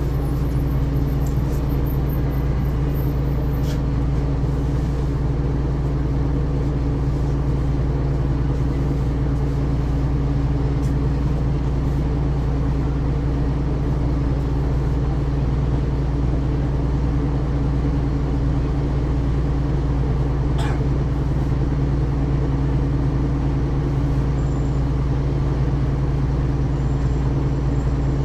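Ikarus 435 bus's diesel engine running at a steady, unchanging speed, with a low steady hum and no revving. Two brief clicks stand out, one about four seconds in and one about twenty-one seconds in.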